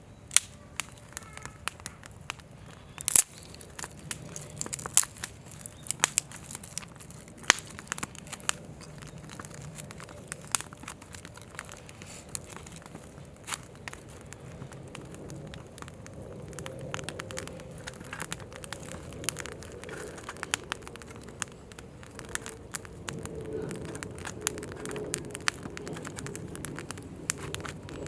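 Firewood burning in a campfire, crackling with irregular sharp pops, the loudest about three seconds in, over a low, steady rush of flame that grows a little in the second half.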